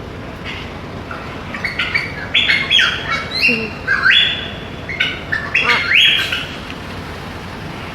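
Parrot calling: a run of short squawks and chirps, several sweeping sharply up in pitch, starting about a second and a half in and stopping about a second and a half before the end.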